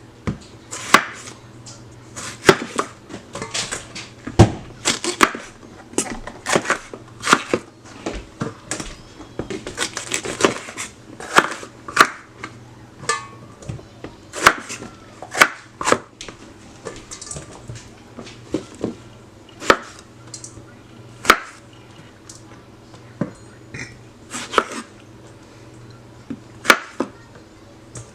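Kitchen knife cutting tomatillos on a cutting board: irregular sharp knocks of the blade striking the board, over a low steady hum.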